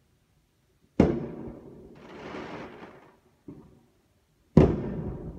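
Aerial fireworks exploding: two sharp bangs, about a second in and near the end, each followed by a rolling echo. Between them come a hiss and a fainter thud.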